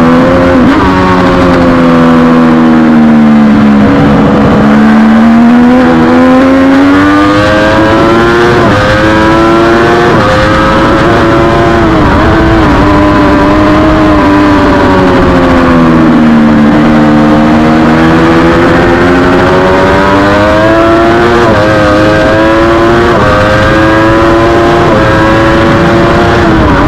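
Race motorcycle engine at racing speed, revs climbing through the gears with short breaks at each shift, falling to a low point twice as it slows and then pulling back up, over a steady rush of wind noise.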